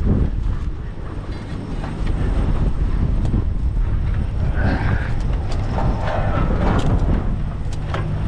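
Strong wind buffeting the camera microphone in a steady, heavy low rumble. Scattered sharp clicks and knocks come through it, mostly in the second half.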